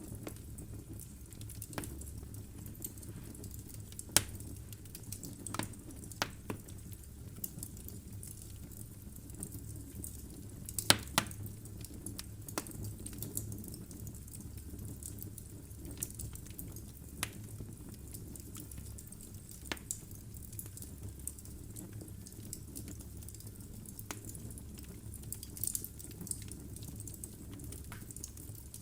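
Wood logs burning in a fireplace: irregular crackles and sharp pops over a steady low rumble of flame. The loudest pop comes about four seconds in, and a quick cluster of pops comes near the middle.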